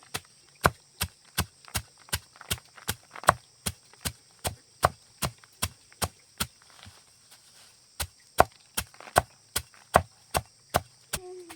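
Steady chopping with a blade on wood, about two and a half strokes a second, easing to a few light strokes for about two seconds midway before picking up again.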